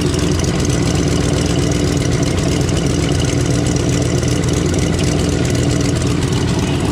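El Camino's engine idling steadily on a newly installed Holley EFI system, running much better since its setup was changed.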